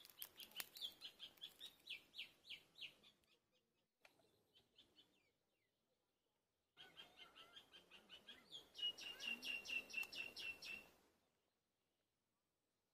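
A bird calling: two bouts of quick, evenly repeated high chirps, about four or five a second, with a pause of a few seconds between them.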